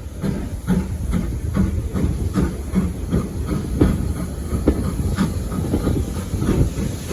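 Steam locomotive running with a steam hiss, a low rumble and a steady run of short clattering knocks from its wheels and motion.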